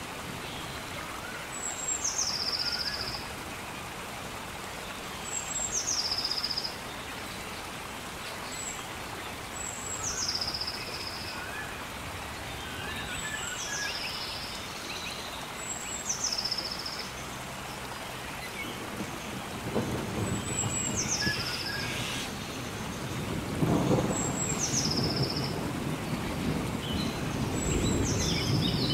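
Steady rain with a thunderstorm: a bird repeats a high call that drops in pitch and then holds, about every three to four seconds, and thunder rumbles in about two-thirds of the way through.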